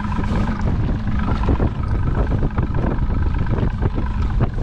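Strong wind buffeting the microphone in an uneven rumble, with a boat motor humming steadily underneath.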